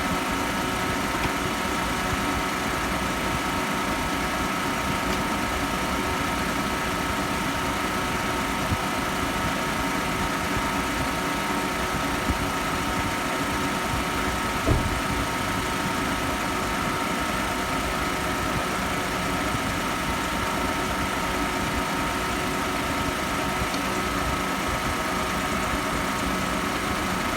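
Car engine idling steadily, with a steady high whine over the rumble, while an air-conditioning additive is charged through the low-pressure port. A single short knock about halfway through.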